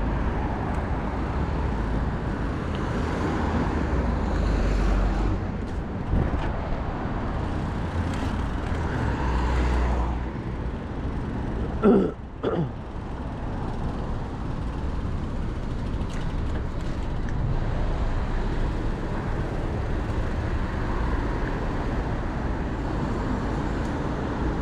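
City road traffic heard while riding a bike along a busy road, with a steady low rumble throughout. A brief, loud squeal about halfway through.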